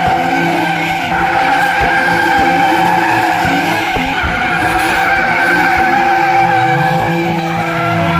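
Drift car's engine held at high revs while its tyres slide through a drift, loud and steady throughout.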